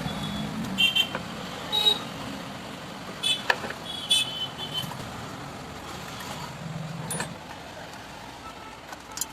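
Several light metallic clinks and taps, some with a brief ringing tone, scattered over a steady background rumble as small metal parts and tools are handled.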